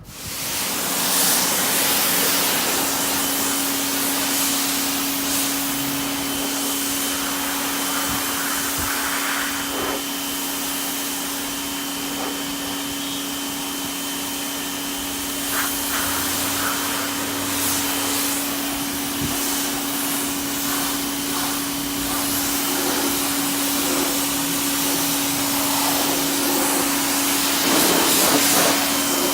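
A small electric motor starts abruptly and runs steadily with one constant hum over a loud spraying hiss, typical of car-washing equipment running.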